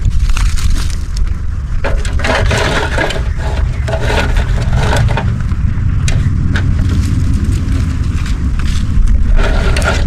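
Heavy wind rumble on the microphone, with repeated crunching and scraping noises that come thickest about two seconds in and again near the end.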